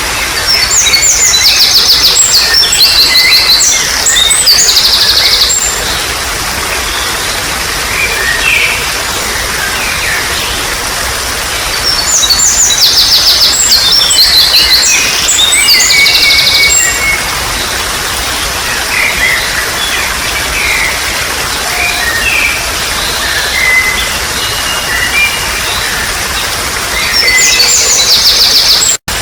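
Songbirds chirping and trilling in repeated bouts of fast, high, rattling notes over a steady trickle of running water. The sound drops out for an instant near the end.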